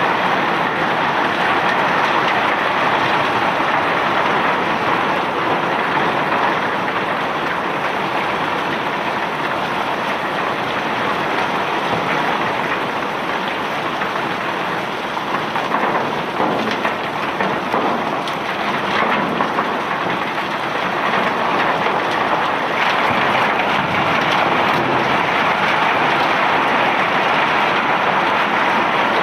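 Bulk cargo of rock or ore pouring off a self-unloading barge's conveyor in a steady rushing, rattling stream. The stream grows slightly uneven and clattery around the middle.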